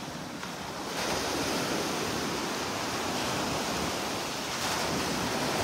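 Gulf of Mexico surf washing onto the beach: a steady hiss of small waves that grows a little louder about a second in.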